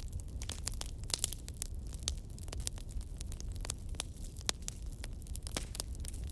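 Fire crackling: irregular sharp pops and snaps over a steady low rumble, with a few louder pops scattered through.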